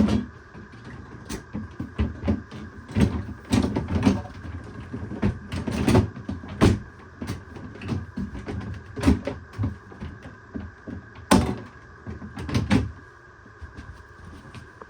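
Irregular knocks and clatter of a fridge's plastic freezer drawer and basket being handled and pushed into place, with a faint steady hum underneath.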